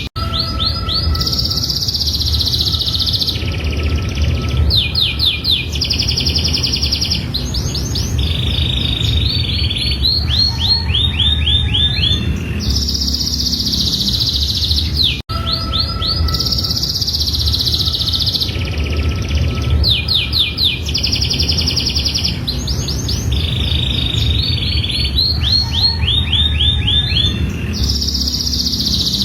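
Domestic canary singing a long song of fast rising-and-falling trills and sustained buzzy rolls, over a steady low hum. The same song sequence of about fifteen seconds repeats, breaking off abruptly about halfway through and starting over.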